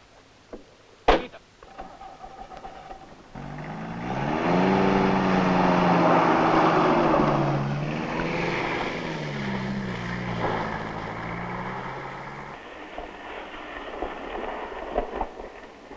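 A car door slams about a second in. Then a car engine revs hard for about nine seconds, its pitch rising and falling as the car is driven up out of a roadside ditch, and the sound cuts off suddenly.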